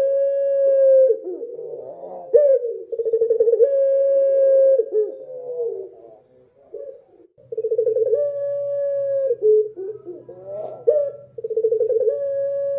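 A puter dove (ringneck dove) cooing repeatedly. Each phrase is a rapid rolling stutter followed by a long steady note, with short gaps between phrases. A faint low hum comes in about halfway through.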